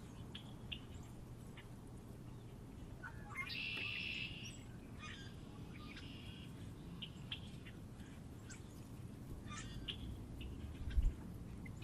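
Small birds chirping and calling in short, scattered chirps, with a denser bout about three to four seconds in, over a low steady background rumble. A short low thud comes near the end.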